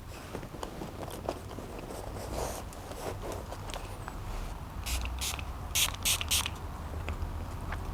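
Close-miked eating sounds: chewing with small wet mouth clicks, and a run of about five short crackling bursts a little after halfway.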